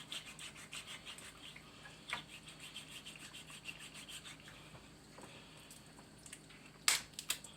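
A knife working through a raw chicken, faint scraping and cutting, then a sharp crack followed by a few quick snaps near the end as a bone or joint is broken.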